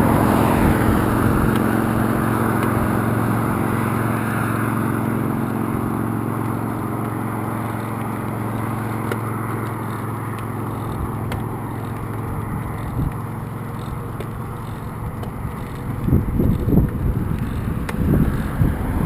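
Road traffic: a motor vehicle running with a steady low hum and tyre noise that slowly fades away, then wind buffeting the microphone from about sixteen seconds in.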